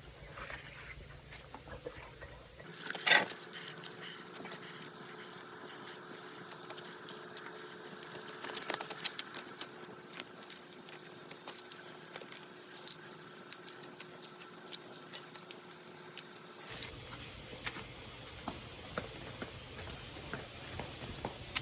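Wood fire crackling with irregular pops and snaps, one sharper crack about three seconds in.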